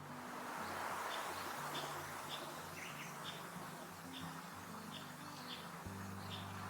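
A small songbird giving short high chirps, roughly one or two a second, over a steady background hiss.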